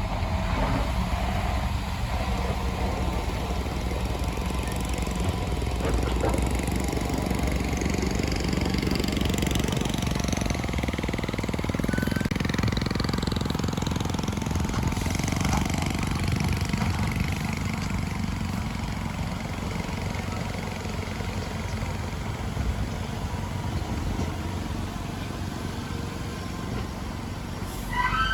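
Heavy diesel earthmoving machinery engine running steadily with a low rumble, with a short sharp sound right at the end.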